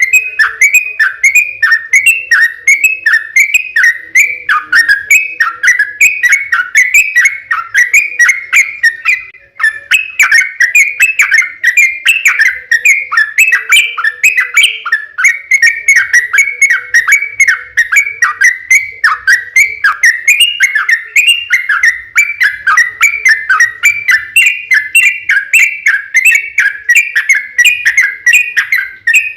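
Yellow-vented bulbul singing a long, rapid run of short whistled notes, each sweeping downward, about three a second, with a brief break about a third of the way in.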